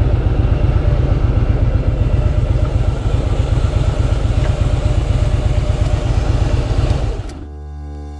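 Harley-Davidson Softail Slim's air-cooled V-twin engine running steadily under way, with a fast, even pulsing exhaust beat. About seven seconds in, it cuts off sharply into background music.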